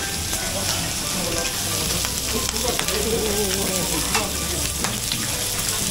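Food sizzling and frying on a hot grill or griddle, with a few sharp clinks of utensils.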